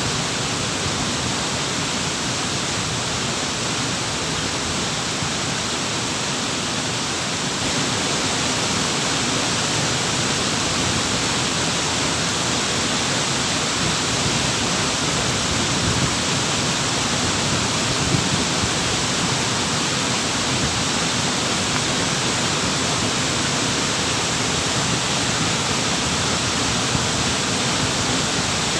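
Waterfall: a steady rush of falling, splashing water, growing slightly louder about seven seconds in.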